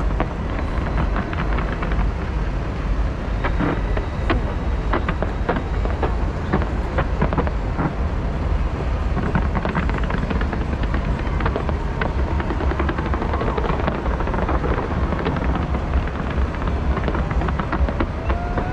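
Fireworks display going off: a continuous deep rumble of bursts with many sharp cracks and pops scattered through it.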